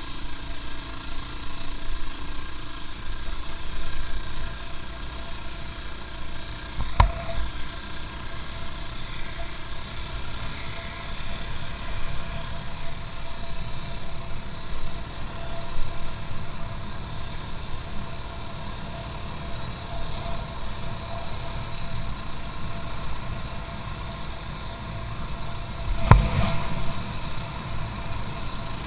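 A vehicle engine running steadily at low revs, given a little throttle. Two sharp knocks stand out, one about a quarter of the way in and one near the end.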